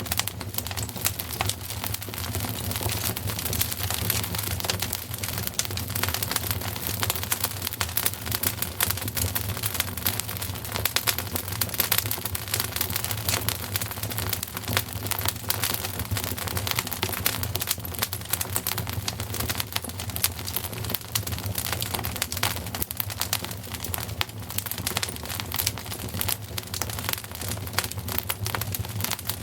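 Wood fire crackling steadily: a dense, irregular stream of small snaps and pops over a low, even rumble of flame.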